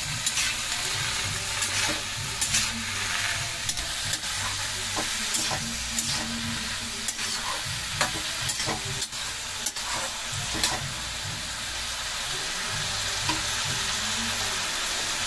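Sheem beans and potato pieces sizzling in mustard oil in a metal kadai, with a metal spatula clicking and scraping against the pan as they are stirred. The stirring mostly stops near the end while the steady sizzle goes on.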